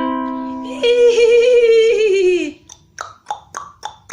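A woman imitating a horse: a wavering, high neigh held for about a second and a half that drops in pitch at the end, then tongue clicks about four a second mimicking hoofbeats. A ukulele chord fades out at the start.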